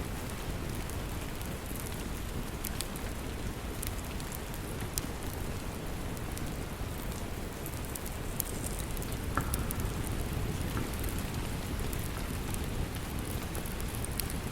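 Steady rain, with scattered sharp pops and crackles from a wood fire.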